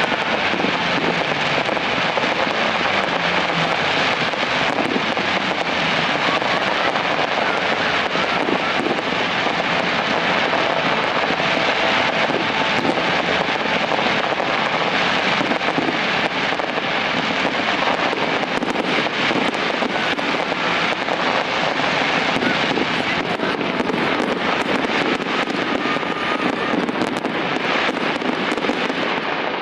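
Fireworks display going off with continuous dense crackling and fizzing, steady throughout.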